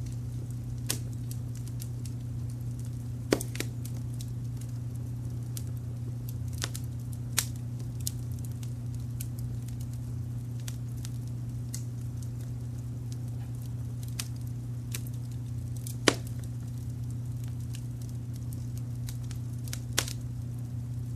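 Wood fire crackling with scattered sharp pops, the loudest about three seconds in and about sixteen seconds in, over a steady low rumble of brown noise.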